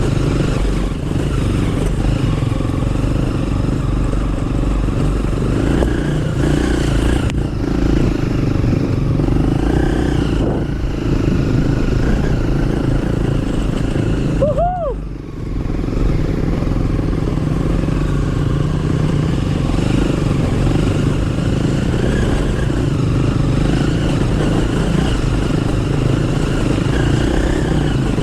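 Small motorcycle engine running steadily while riding, with a brief drop in engine sound and a short rising-then-falling whine about halfway through.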